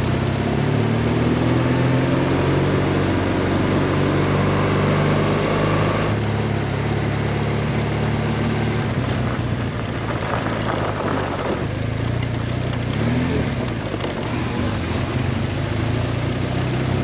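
BMW R1200 GS boxer-twin engine running at a steady road speed while riding, with heavy wind rush; the engine note rises gently a few times.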